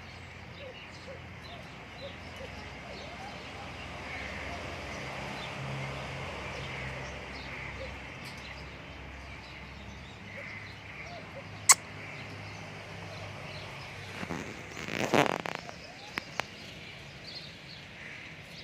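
Faint chirping of birds over a steady background hiss. There is a sharp click near the middle, then a loud, rough burst of noise lasting about a second about three-quarters through, followed by two small clicks.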